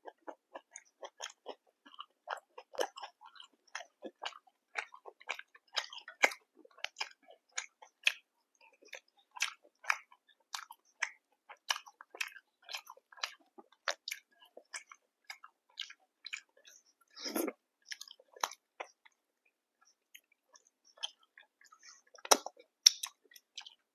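Close-miked chewing and biting of food, with many short wet mouth clicks, several a second. One louder, longer sound comes about seventeen seconds in.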